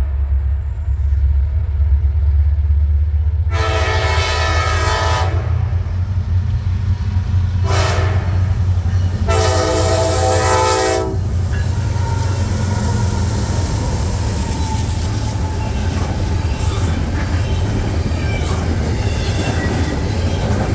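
Freight train's diesel locomotive sounding its air horn in the grade-crossing pattern: a long blast, a short one, then a long one, over the steady deep rumble of the engines. After the horn stops, the train's cars roll past with wheel clatter.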